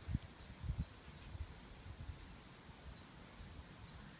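Faint outdoor ambience: an insect chirping steadily, short high chirps a little over two a second. A few low thumps stand out near the start.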